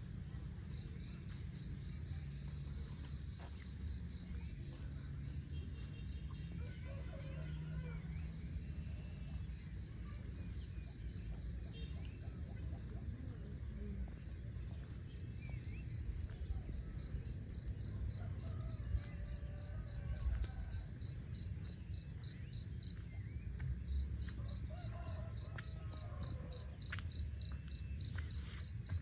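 Crickets and other insects calling: a fast, even pulsing high-pitched trill with a steady high buzz alongside, over a low rumble.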